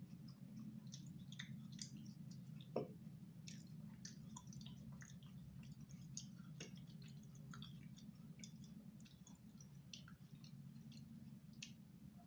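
Faint close-up mouth sounds of someone eating soft food: many small wet clicks and smacks of chewing, scattered irregularly, over a steady low hum.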